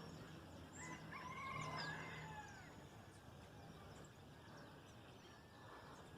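Birds calling: a short warbling trill about a second in, with thin higher chirps around it, then fainter calls over quiet background.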